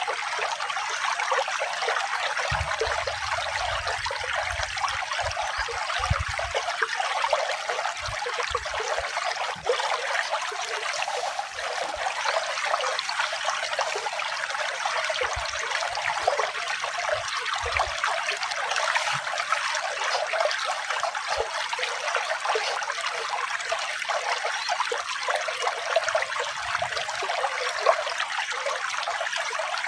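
Running water trickling steadily, with no pauses or changes.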